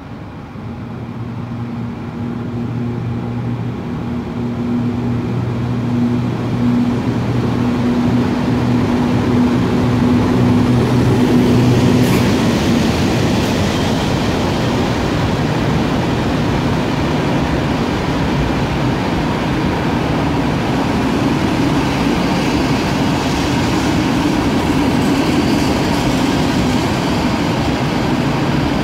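EP09 electric locomotive hauling a passenger train into the platform: a steady hum with two low tones grows louder as it approaches, then the coaches roll past with an even rumble of wheels on rail. A sharp click comes about twelve seconds in, and a faint high squeal of wheels joins near the end.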